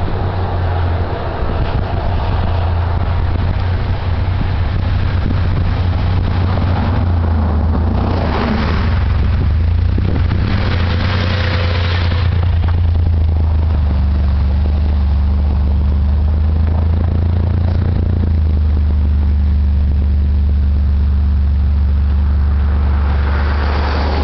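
1997 Isuzu Rodeo's six-cylinder engine running through its aftermarket 2.5-inch high-flow cat and MagnaFlow exhaust, giving a steady low drone that shifts slightly in pitch about halfway through. Two brief rushing noises come and go a third of the way in.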